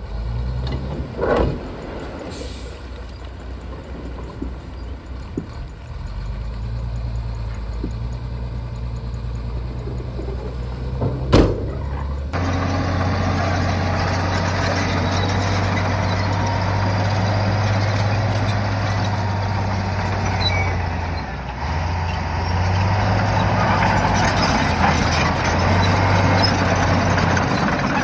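Shantui bulldozer's diesel engine running with a steady low drone, with two sharp metallic knocks about one and eleven seconds in. At about twelve seconds the engine note steps up and stays louder and fuller, as the machine comes under load.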